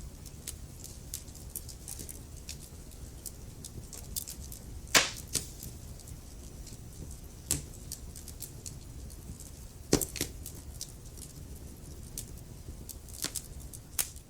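Wood fire crackling: a steady stream of small sharp snaps over a low rumble of the flames, with louder pops about five seconds in, about halfway and near the end.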